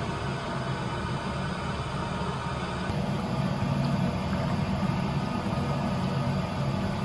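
A vehicle's engine running steadily, a low rumble with a faint hum over it; it gets a little louder about three seconds in.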